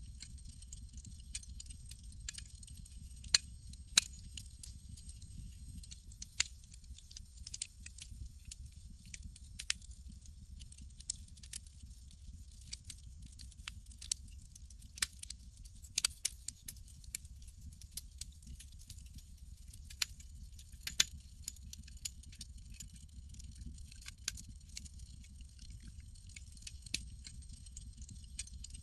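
Campfire crackling: irregular sharp pops and snaps, a few of them loud, over a steady low rumble and hiss.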